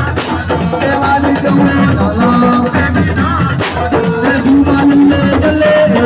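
Live assiko band music: drums and shakers with singing.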